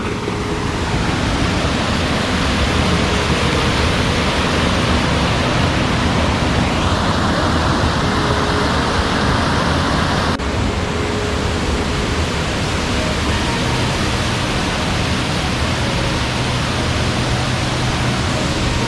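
Waterfall roaring up close: a loud, steady rush of falling water.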